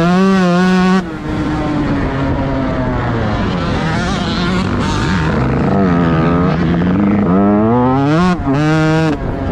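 Motocross bike engine under hard throttle. The revs drop off suddenly about a second in, run rough and off-pitch for several seconds, then climb again with two short breaks near the end, typical of gear changes.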